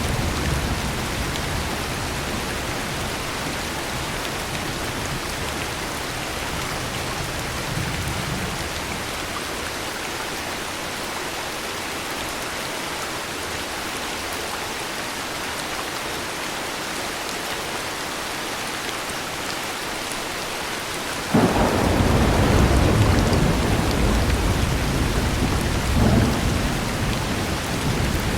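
Heavy rain falling steadily, with a low thunder rumble at first that dies away. About three-quarters of the way through a sudden thunderclap breaks in and rumbles on, with a second crack near the end.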